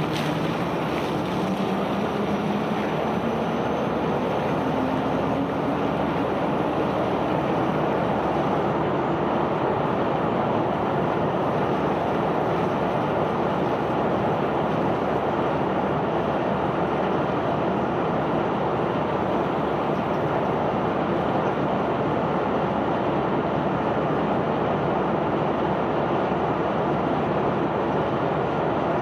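Self-unloading barge's unloading machinery running steadily, a dense continuous rumble and rush. Within it an engine tone rises in pitch over the first few seconds, then holds level.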